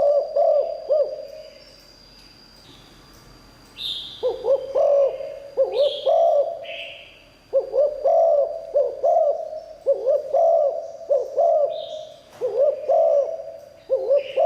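Spotted dove cooing: repeated phrases of low, arching coo notes. One phrase trails off about a second in, the bird starts again about 4 s in, and it coos nearly without pause from halfway through.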